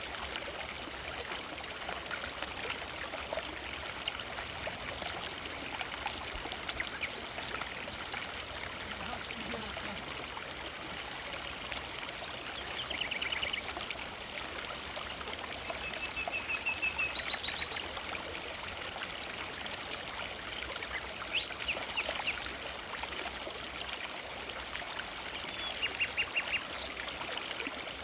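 Forest river flowing steadily, with birds giving short high chirps and trills over the water several times.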